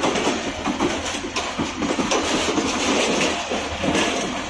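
Passenger coaches of an arriving express train rolling past close by: a steady rumble of steel wheels on the rails with scattered clacks over rail joints.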